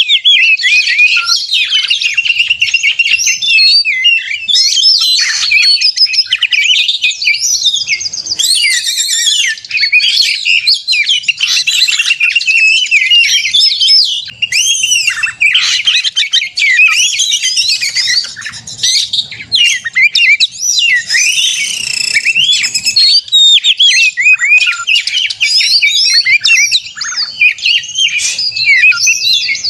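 Oriental magpie-robin (kacer) singing non-stop: a fast, loud, varied stream of rising and falling whistles and chirps with hardly a pause. This is the agitated 'fighting' song of a male, the kind that sets other magpie-robins singing.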